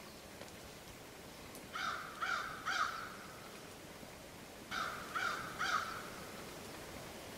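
A crow cawing in two series of three caws, the second series about three seconds after the first.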